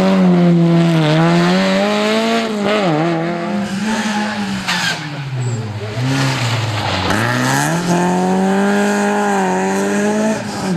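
Historic rally car engine at full effort on a special stage. The revs climb and drop several times, falling low about seven seconds in, then pulling up again.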